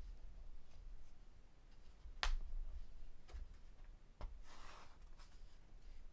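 Faint handling of a book's paper pages: a sharp tap a little over two seconds in, a few lighter clicks, and a short papery swish of a page being turned a little after four seconds.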